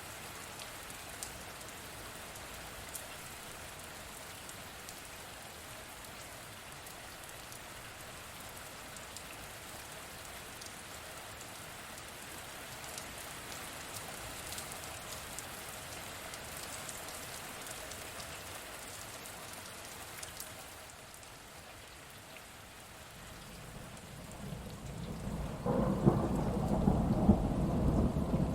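Steady rainfall, then a rumble of thunder that builds up near the end and becomes louder than the rain.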